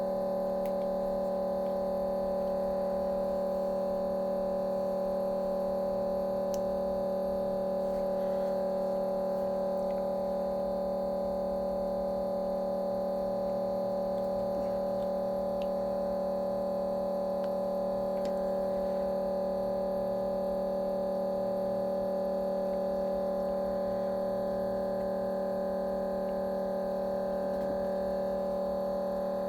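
Steady electrical hum, a buzz of several fixed tones that never changes in pitch or level, with a few faint clicks.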